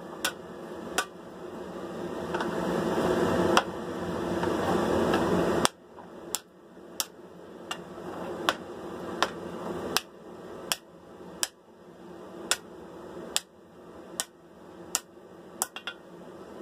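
Blacksmith's hand hammer striking hot leaf-spring steel on an anvil in an even rhythm of about one blow a second, drawing the bar down to form the shoulders of a sword tang. For the first several seconds a steadily rising rushing noise sits under the blows, then cuts off suddenly.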